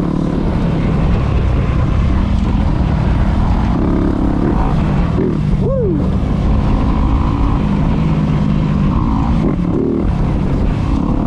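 Dirt bike engine under way on a trail, its pitch rising and falling with the throttle and one quick rev about halfway through, under heavy wind rumble on the helmet camera's built-in microphone.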